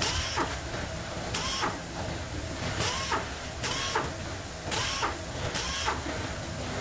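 Repeated short scraping strokes of a tool working on an electric motor being dismantled, often in quick pairs about a second apart, each with a brief squeak, over a steady low hum.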